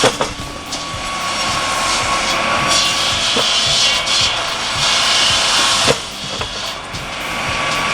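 Tractor-driven automated circular firewood saw running and cutting through logs: a loud high whining noise that swells as the blade bites, with a few sharp knocks of wood.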